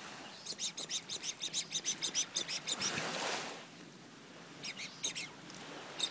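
A small bird singing a fast, even run of about twenty high chirps lasting a couple of seconds, then a few separate chirps later on.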